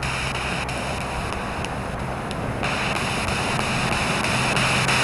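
Spirit box sweeping through radio stations: a steady hiss of static from its small speaker, thinning briefly about two seconds in.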